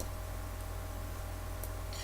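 Steady low hum with a couple of faint clicks, one about one and a half seconds in and another near the end.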